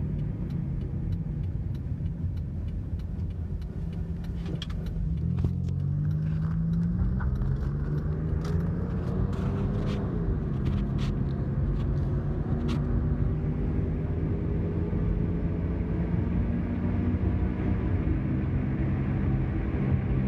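Car engine and road rumble heard from inside the moving car: the engine pitch climbs as the car speeds up about five seconds in, dips and climbs again near ten seconds, then holds steady at cruising speed. A few light clicks and rattles come between about five and thirteen seconds.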